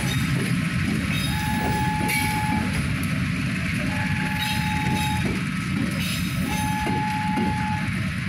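Train's diesel engine running with a steady low rumble. Over it, a single-pitched beep sounds for just over a second about every two and a half seconds, with a few metallic knocks between.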